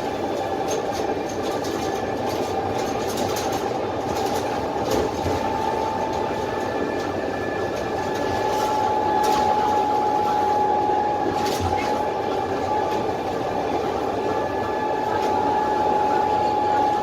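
Cabin noise of a Dennis Trident double-decker bus on the move, heard from the lower deck: its Cummins ISMe diesel engine and road noise run steadily under a constant high whine, with occasional light rattles.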